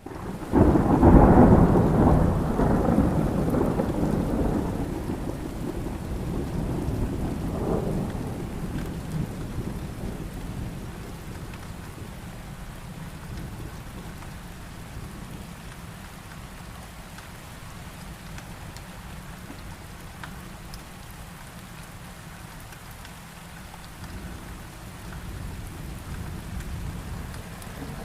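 A thunderclap breaks in suddenly and rumbles low, fading over several seconds with a second swell of rumbling about eight seconds in. Steady heavy rain continues underneath and carries on after the thunder dies away.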